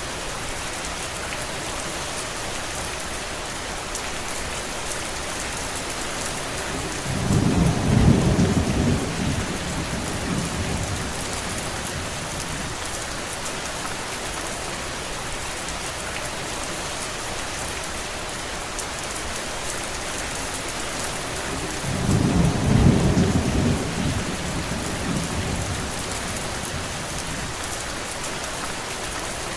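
Steady rain falling as an even hiss. Twice, about eight and about twenty-three seconds in, a deep rumble swells up over it for some three seconds and fades.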